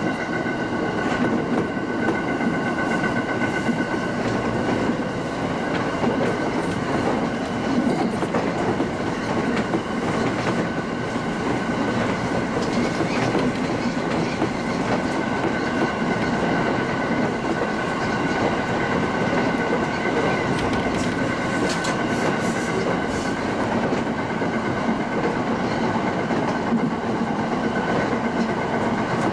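Local passenger train running along the line between stations: steady rumble of wheels on rail with occasional clicks from rail joints, and a few faint steady high tones over it.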